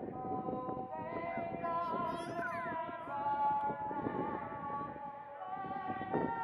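A singer performing a national anthem, holding long notes that step to a new pitch every second or two.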